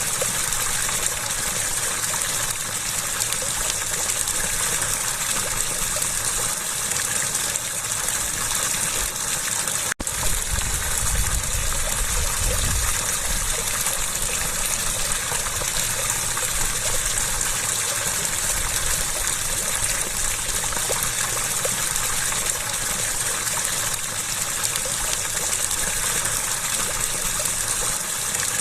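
Flowing water rushing and splashing steadily in a constant hiss. It cuts out for an instant about ten seconds in, and a low rumble follows for a few seconds.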